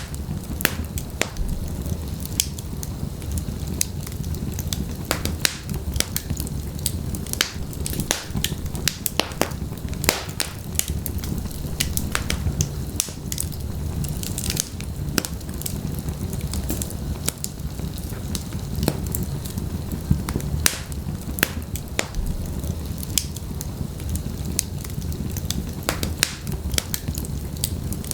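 Wood fire burning in a fireplace, crackling and popping with many sharp irregular snaps over a steady low rumble of the flames.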